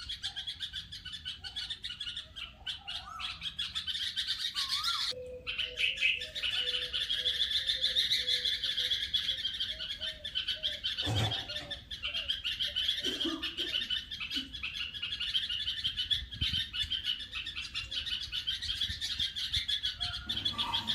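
Small birds chirping and twittering without a break: a dense, high-pitched chatter.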